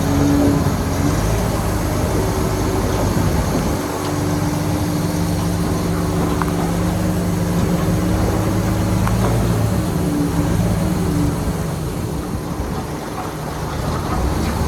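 Heavy diesel construction machinery, a bulldozer or dump truck, running steadily with a low rumble; its engine note shifts about four seconds in, with a few faint clanks.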